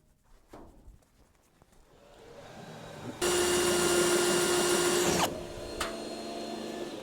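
Electric drill drilling out spot welds in a truck cab's sheet-steel floor. It runs loud and steady for about two seconds from about three seconds in, then drops to a quieter steady hum.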